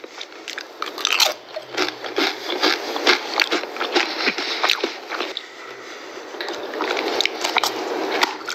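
A person biting and chewing crunchy food close to the microphone, with loud crisp crunches. About five seconds in, the crunching gives way to a softer, more continuous sound.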